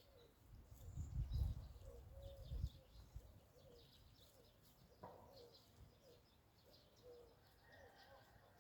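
Faint birdsong: scattered high chirps and short, low, repeated calls, with a low rumble over the first three seconds.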